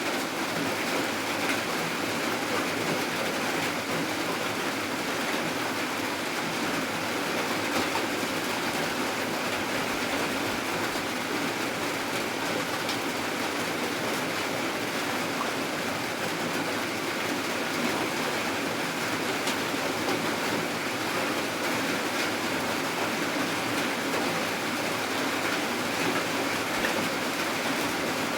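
Steady rain falling, an even hiss that does not change or break.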